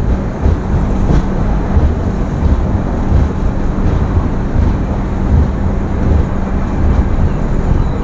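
Passenger express train rolling into a station, heard from the coach doorway: a steady, loud rumble of the wheels on the rails with wind buffeting the microphone.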